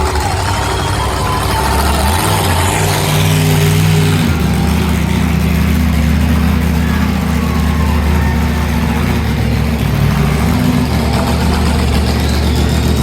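Monster truck engine running loud and low, its pitch shifting a couple of times in the first few seconds, then holding steady.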